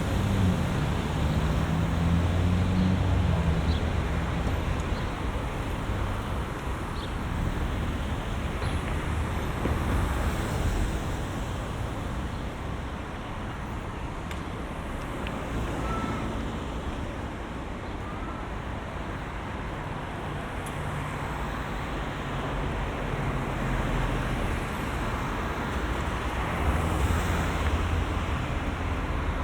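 Road traffic: cars passing with engines and tyre noise, louder at the start and again near the end.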